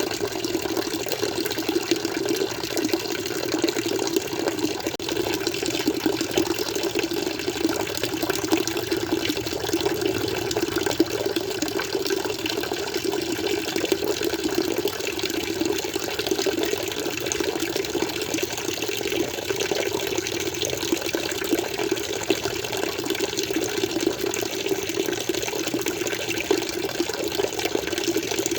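Water flowing steadily, an even running sound that never changes or breaks.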